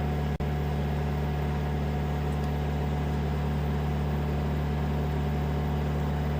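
Steady low drone of an idling engine, unchanging, with a brief dropout about half a second in.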